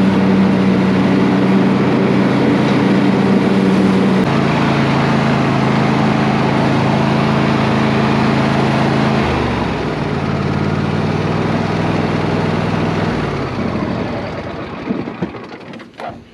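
Husqvarna riding lawn mower engine running on a test run of its freshly rebuilt cutting deck. The engine speed drops in three steps, then the sound dies away near the end.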